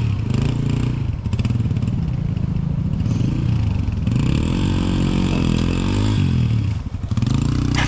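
Dirt bike engine running under throttle, the revs rising and falling repeatedly as the bike is ridden, with a brief dip in power about seven seconds in.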